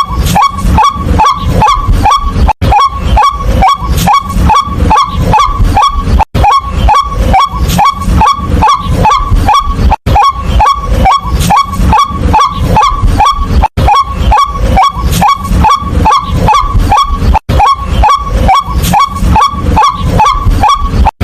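White-breasted waterhen calling its repeated "kwak" note in a fast, even series of about three calls a second, with a brief break about every four seconds.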